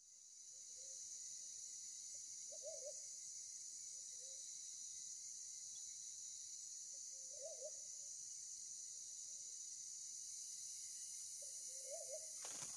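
A bird giving short, low, wavering calls every few seconds, faint against a steady high hiss, with a sharp knock right at the end.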